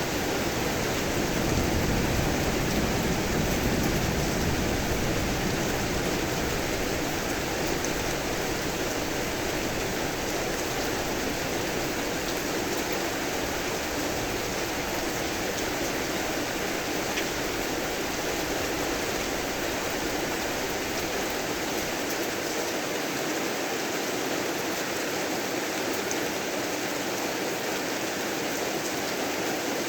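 Heavy rain falling steadily, a dense even hiss. A low rumble of thunder underneath swells in the first few seconds and fades away over the following quarter minute.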